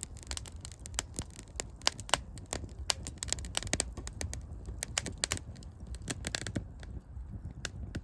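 Wood fire crackling, with many irregular sharp snaps and pops.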